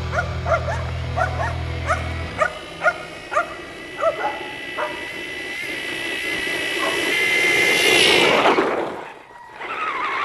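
A dog yelping in a string of short rising yips. Then a brushed electric RC car motor whines, rising in pitch and getting louder, and cuts off sharply about eight and a half seconds in.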